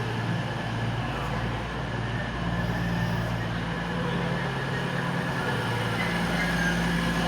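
Diesel train engines idling while the train stands at the platform: a steady low hum that holds throughout.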